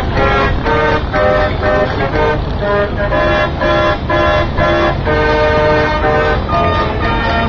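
A horn sounding a quick run of notes that step up and down in pitch, a few per second like a tune, over a loud steady low rumble.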